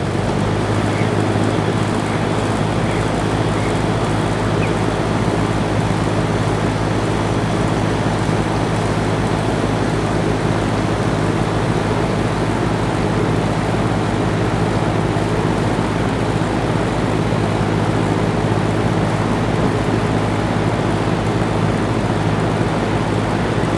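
2006 Rheem Classic 3.5-ton packaged heat pump running steadily in cooling mode: a low compressor hum under the even rush of the condenser fan.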